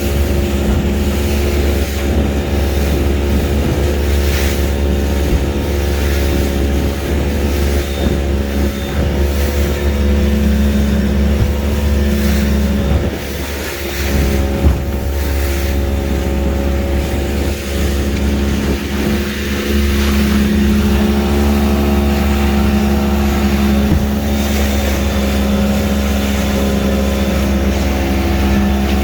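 Small motorboat's engine running steadily under way at cruising speed. It dips briefly about halfway through, then settles into a slightly higher, steady note.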